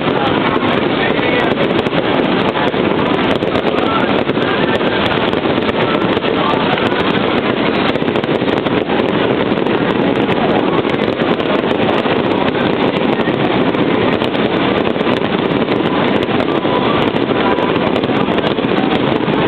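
Fireworks display going off continuously: rapid bursts and crackling run together into a steady, unbroken din, peppered with many small sharp cracks.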